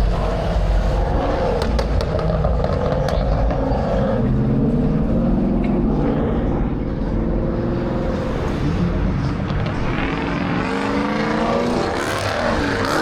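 Several car engines running and revving at once, their pitch rising and falling over a low exhaust rumble.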